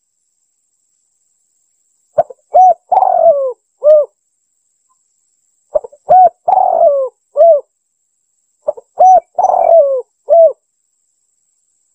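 Spotted dove (tekukur) cooing, a recorded lure call: the same phrase three times, roughly every three seconds. Each phrase is a couple of short coos, a longer coo that falls in pitch, then one more short coo, with complete silence between phrases.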